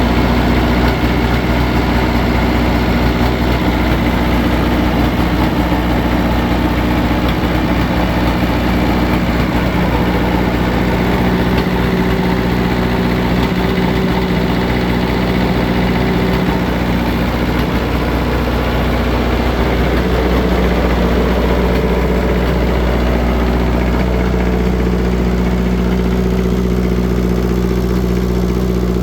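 Perkins engine of a Taylor machine running at a steady idle with a popping sound. The popping and heavy oil blow-by point to a bad cylinder.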